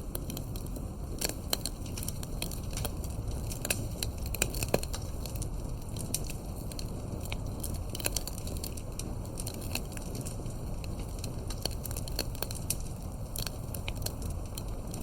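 Campfire burning, its firewood crackling in sharp, irregular snaps and pops over a steady low rush.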